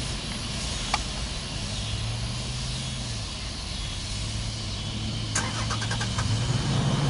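An engine running with a low, steady hum that grows louder near the end, over outdoor background noise. A sharp click comes about a second in, and a quick run of clicks about five and a half seconds in.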